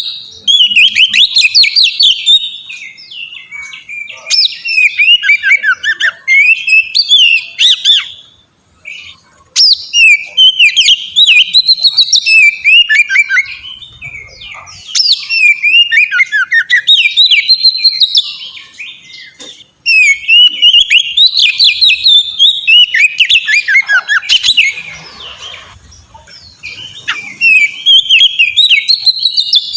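Oriental magpie-robin (kacer) singing loudly in long, varied phrases of fast whistles and trills, with short breaks between phrases.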